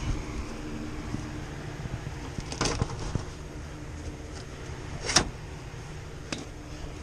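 A steady low machine hum with a faint held tone, and two sharp knocks, the first about two and a half seconds in, the second, louder, about five seconds in.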